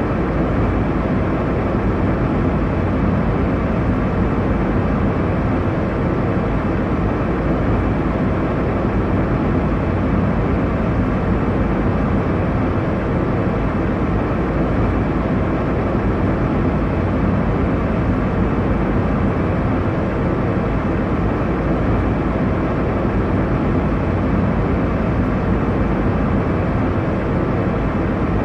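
Airliner cabin noise: a steady, even rumble with most of its weight in the low and middle range, unchanging throughout.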